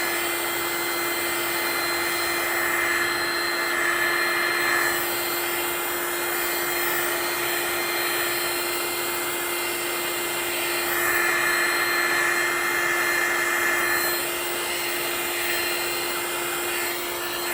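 Handheld electric blower, such as a heat gun, running steadily with a constant whir and hum, swelling a little twice, as it blows white resin into wispy wave lacing on coasters.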